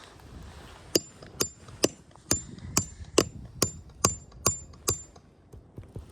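A hammer driving a roofing nail: about ten quick, even strikes, roughly two a second, each with a short high metallic ring. The strikes stop about five seconds in.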